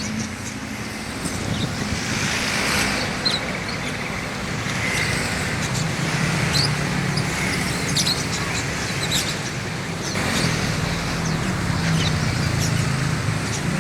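Many small caged songbirds chirping, with short high chirps scattered throughout, over steady road-traffic noise.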